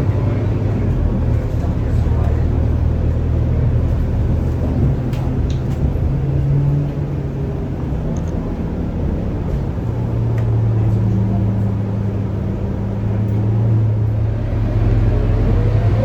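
Scania K230UB bus's five-cylinder diesel engine heard from on board, running steadily at low revs, then picking up near the end with its pitch rising as the bus accelerates.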